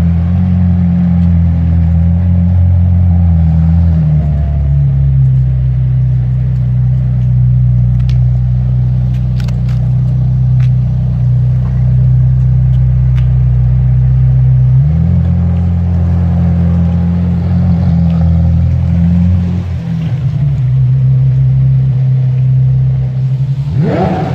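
A car engine idling with a deep, steady rumble that shifts pitch a few times, then a quick rev blip near the end.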